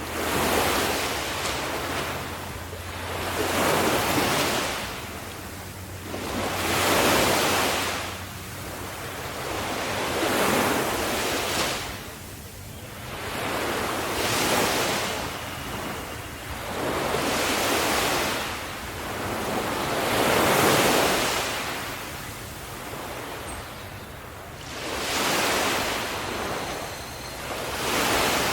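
Sea waves breaking on a shore, the surf swelling and falling back in a steady rhythm, one wave about every three to four seconds.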